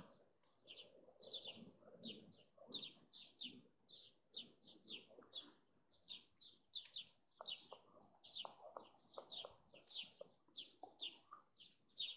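A small bird chirping over and over, short high chirps about two or three a second, keeping up a steady pattern.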